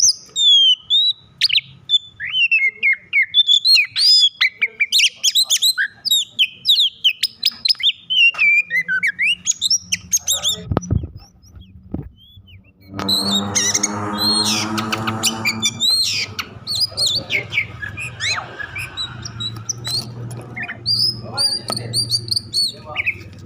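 Oriental magpie-robin (kacer) in agitated song: a fast, dense run of sliding whistles and scratchy notes. The song breaks off for a couple of seconds around the middle. A harsh, buzzy rasp of about three seconds follows, and then the rapid song resumes.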